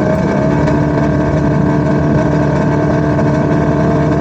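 Small aircraft piston engine running steadily at high power, its pitch rising slightly about half a second in.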